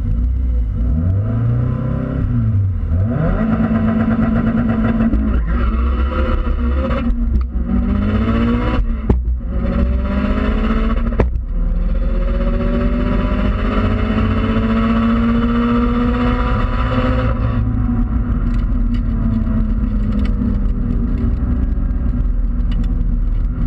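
2004 Subaru Impreza WRX STI's turbocharged flat-four at full throttle, heard from inside the cabin, accelerating hard down a drag strip. The engine note climbs in each gear and drops sharply at each upshift, with a long final pull. About three-quarters of the way through the throttle is lifted and the car coasts with a lower, steadier sound.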